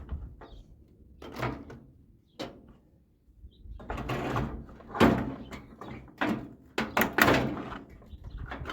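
Metal knocks, clanks and scraping from a microwave oven's sheet-metal casing and parts being handled and pried apart, in irregular bursts with the loudest knocks about five and seven seconds in.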